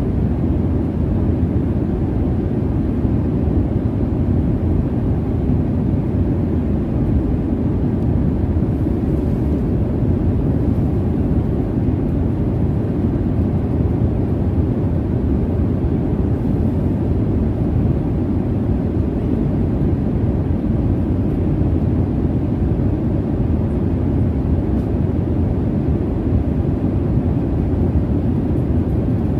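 Jet airliner cabin noise in flight: a steady low rumble of engine and airflow, with no changes or distinct events.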